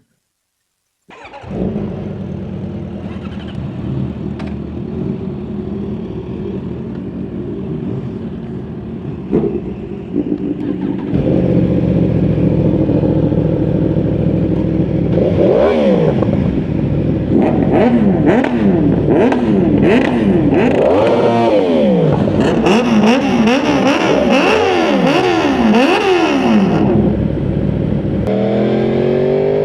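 Several sport motorcycle engines idling together, then from about ten seconds in revving over and over, with overlapping rises and falls in pitch. Near the end one engine climbs steadily in pitch as it accelerates.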